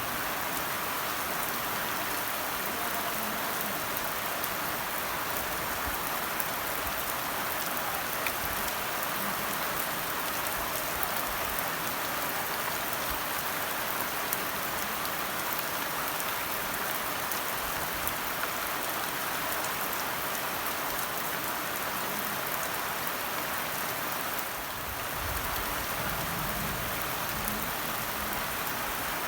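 Steady rain falling, with a dense hiss and scattered individual drops striking a surface.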